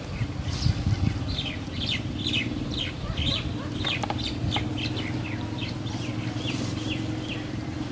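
A bird calling in a quick series of short, high, downward-sliding notes, about three a second, over a steady low hum.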